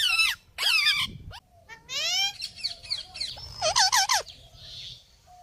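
A parrot squawking: a string of short calls that rise and fall in pitch, with a quick run of calls a little past the middle.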